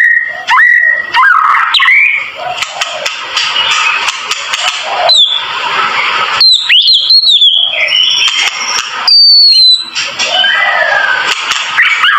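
White-rumped shama (murai batu) singing a loud, varied song: whistled notes that glide up and down, mixed with harsh chattering phrases and sharp clicks.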